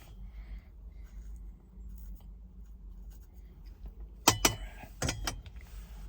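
A few sharp light clicks or clinks of small hard objects being handled, in two quick groups about four and five seconds in, over a low steady hum.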